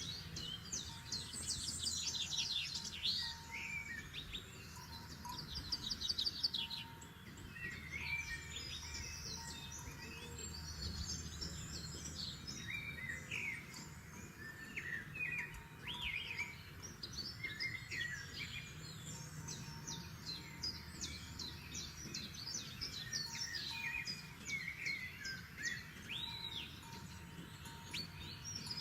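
Several forest songbirds singing and calling at once, with overlapping chirps, fast trills and short whistles, over a low steady background rumble.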